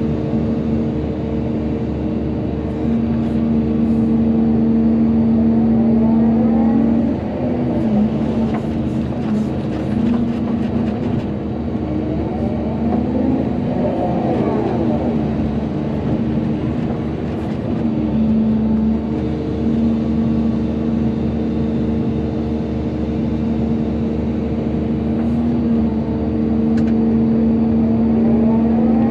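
Volvo EC220DL excavator's diesel engine running under working load. Its pitch holds steady, then rises and falls several times as the hydraulics are worked, with a few short knocks around eight to eleven seconds in.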